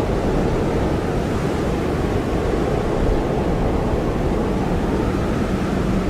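Blizzard wind blowing hard and steadily: a deep, unbroken rush with most of its weight in the low end, and a faint wavering whistle above it.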